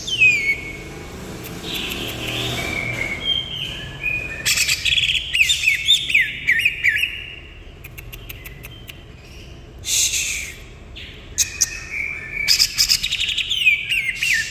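Green leafbird singing in bursts of rapid, high, downward-sliding whistled notes, the fast 'shooting' (tembakan) phrases of its kapas tembak song. There are pauses between bursts, a few clicks partway through and a short noisy burst about ten seconds in.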